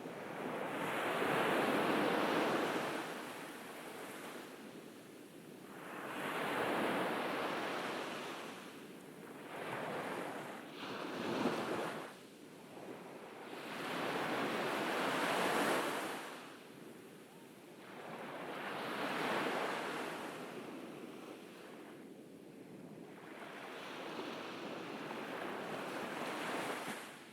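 Ocean surf breaking on a beach: waves rush in and wash back in slow, even swells, about one every four to five seconds.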